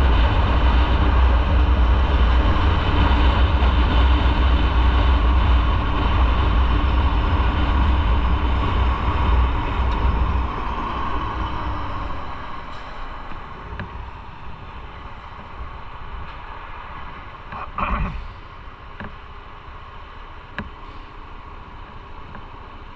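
Motorcycle riding, with a steady low engine rumble and road and wind noise. About halfway through it fades down as the bike slows, and a short thud comes near the end.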